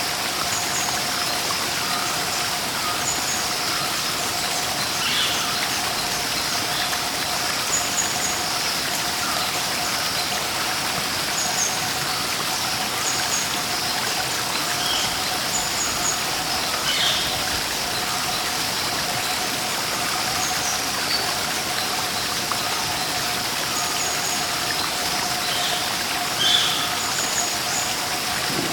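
Steady rush of a waterfall with birds chirping over it: short high chirps every few seconds and a few lower calls now and then. A faint steady tone runs underneath.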